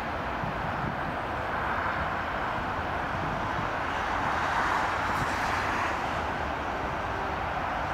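Steady distant rolling noise of a long passenger train moving away along the track.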